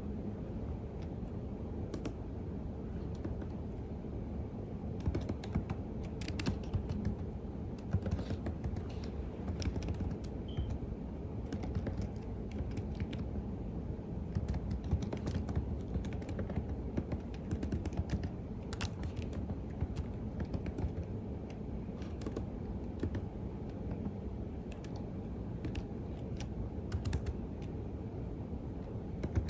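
Typing on a computer keyboard: irregular keystrokes clicking in uneven runs, over a steady low background rumble.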